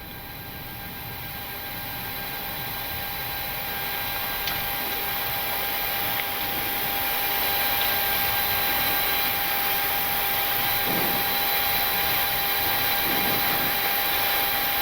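Boeing 737-800 flight deck noise while taxiing: a steady rushing hiss of jet engines at idle and cabin air flow, with a thin high steady hum over it. It grows louder over the first several seconds and then holds.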